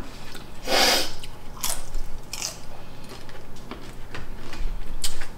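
Close-up eating sounds: a mouthful of burrito-bowl rice and vegetables being chewed, with a plastic fork scooping in the bowl. About a second in there is a short, loud breathy rush, the loudest sound here.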